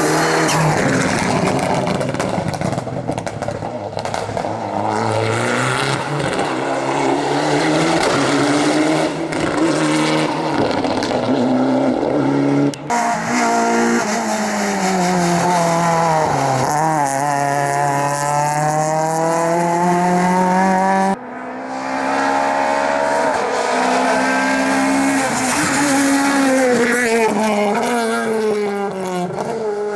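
Rally cars driven hard on a stage, engines revving up and dropping through gear changes as they pass. The audio falls into three separate passes that cut abruptly one into the next.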